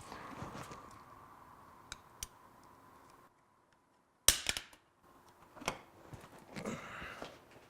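White electrical tape being wrapped around a small box: sharp clicks and knocks as the box is handled, a cluster of them after a moment of silence midway, and a short rasp of tape pulling off the roll near the end.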